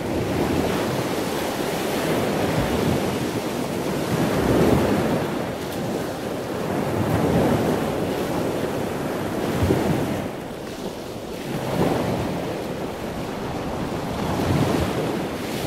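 Ocean waves washing in, a steady rush of water that swells and eases every two to three seconds.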